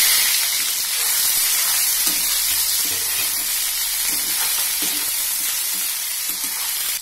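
Boiled raw jackfruit pieces frying in hot mustard oil and ghee in a non-stick kadai, giving a loud, steady sizzle. A metal spatula scrapes and turns the pieces, giving faint knocks under the sizzle.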